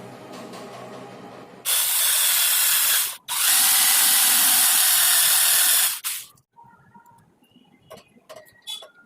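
Two loud bursts of hissing spray, the first about a second and a half long and the second about two and a half seconds, after a short gap. Before them a steady machine hum runs, and faint light clicks follow.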